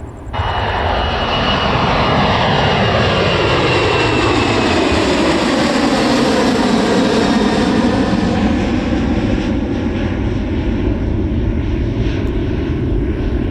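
Boeing 737 jet engines at takeoff thrust as the airliner passes, a loud roar with whining tones that glide down in pitch as it goes by.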